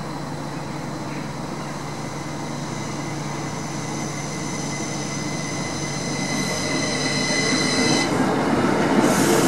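A Class 333 electric multiple unit approaching and passing. It grows steadily louder, with a high steady whine that builds and then stops about eight seconds in, followed by the rumble of the train reaching the crossing near the end.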